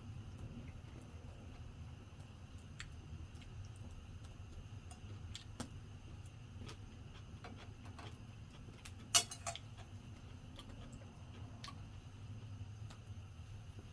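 Small wood campfire crackling faintly, with scattered small pops and ticks over a low steady rumble. About nine seconds in comes one sharp, loud clatter of a few quick clicks.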